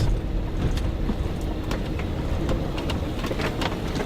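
A vehicle running over a rough dirt road: a steady low rumble with many small rattles and clicks scattered throughout.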